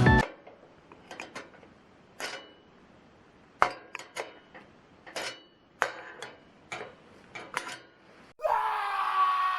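Light metal clinks and taps, a dozen or so spaced over several seconds, from camp gear being handled. About eight seconds in, a louder, longer rushing sound with a few held tones begins.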